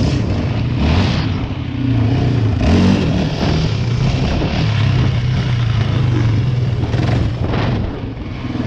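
Dirt bike engine running steadily, with a few brief surges in throttle.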